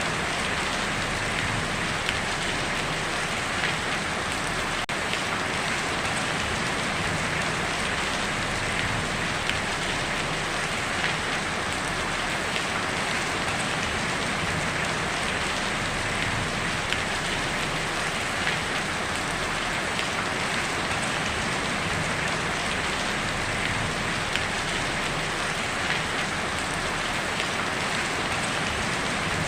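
Heavy rain falling steadily on a tin roof: a dense, even patter with occasional slightly louder drops.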